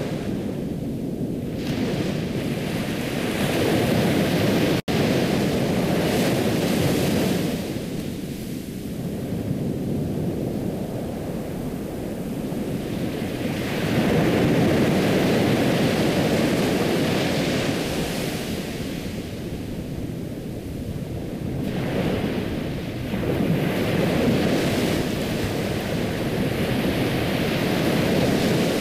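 Ocean waves washing onto a shore, the surf swelling and falling back every several seconds, with a split-second cut-out about five seconds in.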